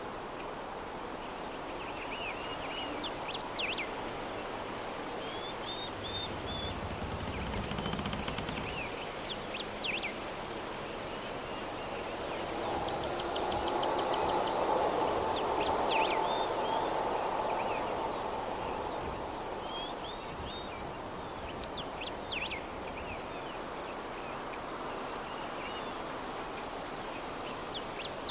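Soft steady breeze with small birds chirping short high notes again and again; the wind swells for several seconds in the middle.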